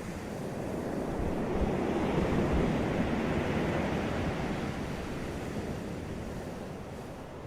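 Sea waves breaking on a beach: the surf swells up about a second in, peaks, and then washes back and fades, over a low steady rumble of the sea, with some wind noise on the microphone.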